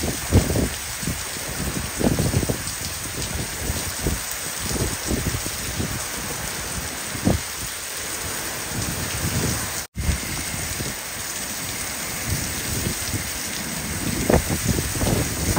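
Heavy rain falling steadily in a hiss, with gusty wind buffeting in irregular low rumbles. The sound drops out for an instant about ten seconds in.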